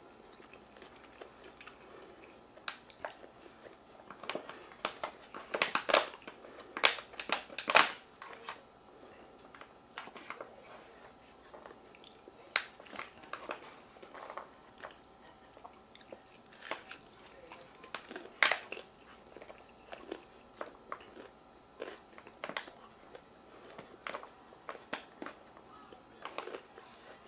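Close-up eating sounds: chewing and biting, with scattered sharp clicks and scrapes of a plastic fork against a foil takeout pan, busiest and loudest between about five and eight seconds in.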